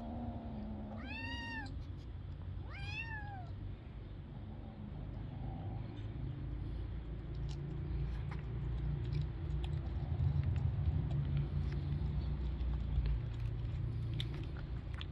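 Kitten meowing twice, each a short call that rises and then falls in pitch. After the calls a steady low rumble runs on, louder for a few seconds in the second half, with faint scattered clicks.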